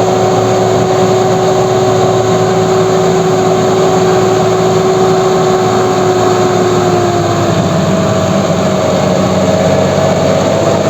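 Heavy diesel machinery engine running steadily at close range, with a steady high whine over it that shifts lower about seven seconds in.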